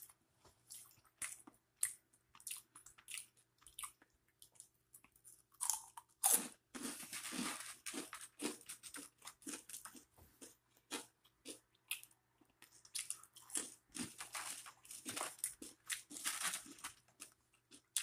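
Close-miked eating: a person biting and chewing crunchy food, with irregular crisp crunches and denser bouts of chewing about six seconds in and again near the end.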